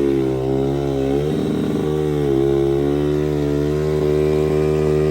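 Motorcycle engine running steadily at a constant speed, its pitch dipping slightly twice.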